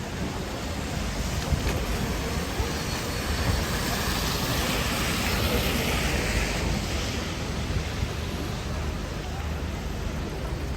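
Rainy city street: a steady hiss of rain and traffic on wet road over a low rumble, swelling for a few seconds in the middle.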